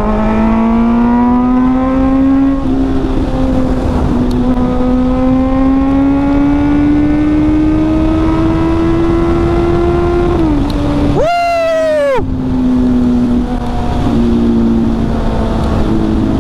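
Inline-four sport motorcycle engine pulling through the gears at highway speed, over steady wind noise. Its pitch climbs slowly, drops at a gear change about three seconds in, and climbs again. Near eleven seconds there is a quick rev rise and fall, after which it runs at a steadier, lower pitch.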